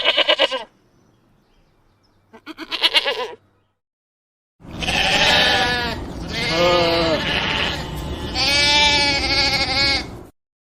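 Sheep bleating: two short wavering bleats, then about a second later a run of three longer bleats.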